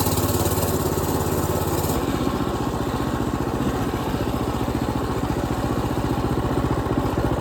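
Predator 212cc single-cylinder engine on a mini bike running. About two seconds in the high hiss and the stronger low note drop away, and the engine settles into a steadier, lower beat.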